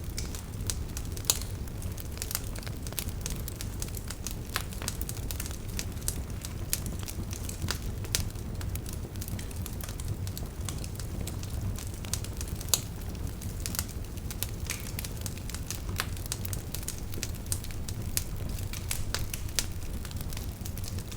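Wood fire burning in a fireplace: a steady low rumble of flames with frequent irregular sharp crackles and pops, two of them louder, about a second in and near the middle.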